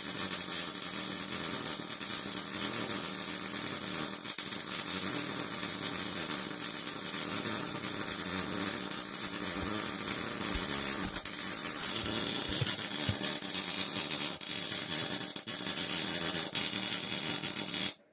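Wire-feed (MIG) welder laying a weave bead on steel plate: a steady crackling hiss of the arc that stops suddenly near the end as the trigger is released.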